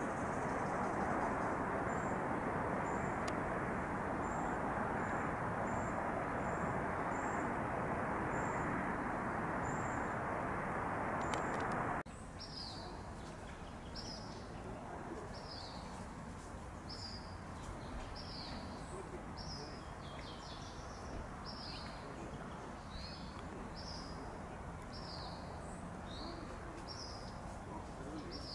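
Small birds calling repeatedly. For about twelve seconds, faint high chirps come about once a second over a loud, steady low rumble. Then the rumble drops suddenly and a bird gives a steady series of short, high, downward-slurred notes, a little more than one a second.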